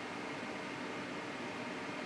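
Steady whirring hiss of a small electric blower or fan running, with a faint hum under it.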